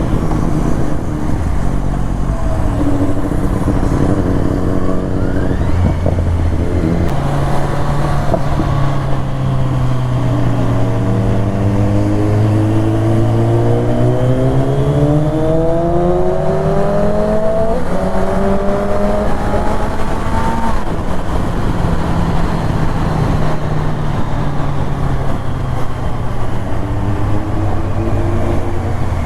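BMW S1000RR inline-four engine running through an Akrapovic Evolution exhaust. It runs steadily at first, then climbs in pitch as it accelerates from about seven seconds in. The pitch drops suddenly twice near the two-thirds mark before the engine settles lower.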